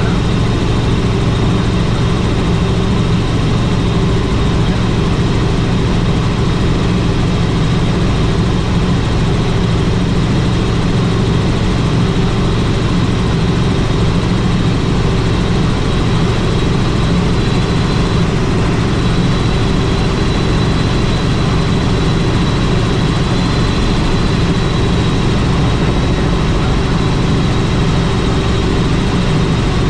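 Helicopter in flight: loud, steady rotor and turbine noise with a low hum and a thin high whine.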